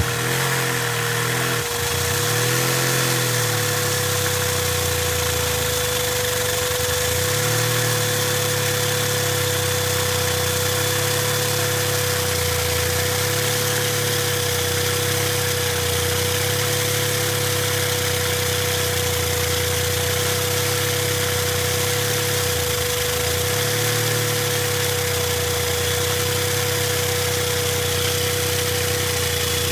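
Single-cylinder Lego vacuum engine running fast, driven by suction through a vacuum cleaner hose, with the vacuum cleaner's steady whine underneath. The engine's speed wavers and dips briefly a few times.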